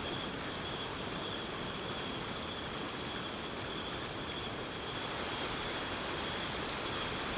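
Steady rush of falling water from the second of the Carbet Falls, an even wash of noise that holds level throughout. A faint, steady high tone sits above it.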